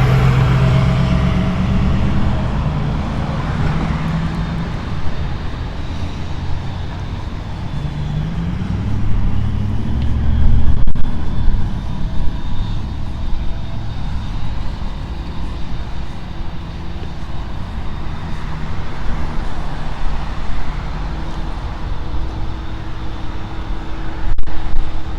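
Road traffic on a busy city street: cars and trucks going by, one engine rising in pitch as it pulls away about eight seconds in.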